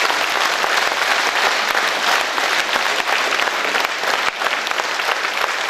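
Concert hall audience applauding steadily, many hands clapping at once.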